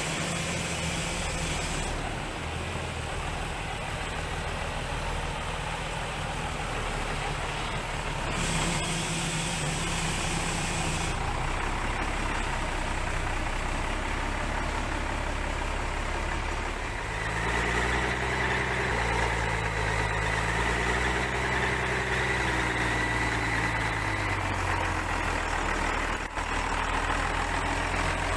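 A motor vehicle engine running steadily; about two-thirds of the way through, its pitch starts wavering up and down.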